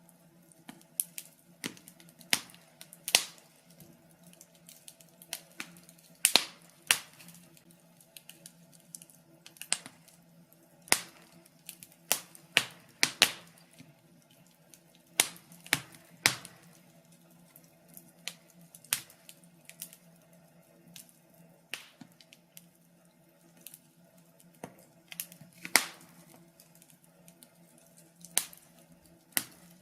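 Wood fire crackling: irregular sharp pops and snaps, a few every second, some much louder than others.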